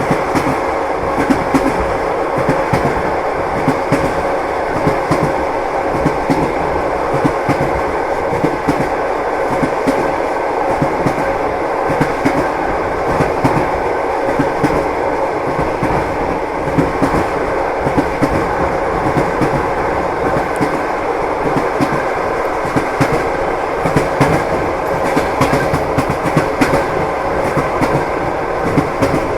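Train wheels clattering on the rails as the train runs. A steady rumble carries many quick knocks all through, with a faint steady hum under them.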